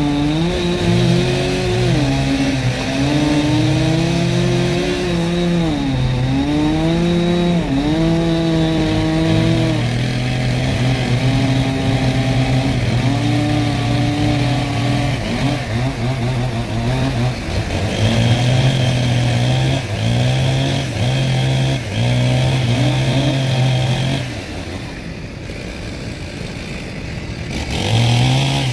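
Chainsaw running hard and cutting, its engine pitch rising and sagging repeatedly as it works under load. About 24 s in it drops to a quieter, lower idle for a few seconds, then revs up again near the end.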